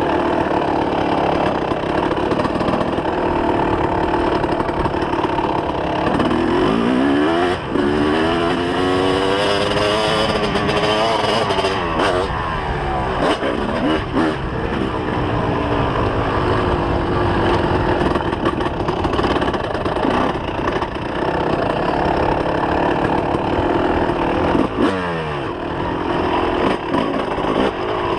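2004 Kawasaki KX250's two-stroke engine running hard while riding, revs rising and falling with the throttle: a long climb and drop about a quarter of the way in and another quick climb near the end.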